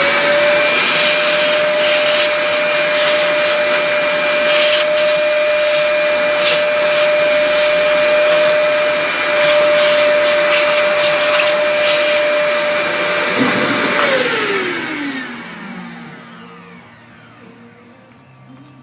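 Shop vacuum switched on: its motor whines up to speed and runs steadily with a rattle of sucked-up swarf, then is switched off at about 14 seconds and winds down.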